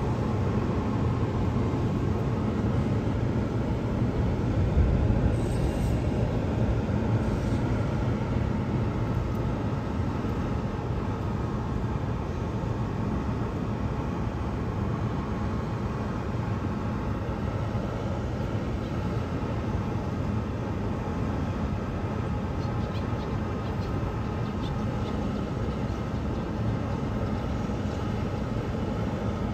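Electric train running, a steady rumble with faint steady tones over it.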